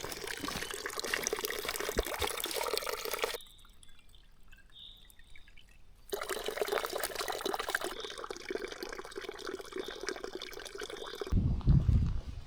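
Running, trickling water. It drops away suddenly for a few seconds in the middle and then returns.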